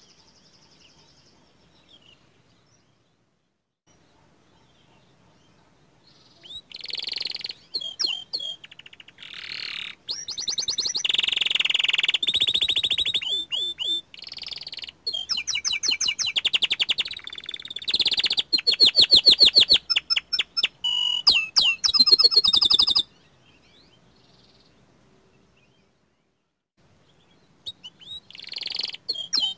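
Young canary singing: long runs of rapid trills and chirps after a few seconds of quiet, breaking off for several seconds before starting again near the end.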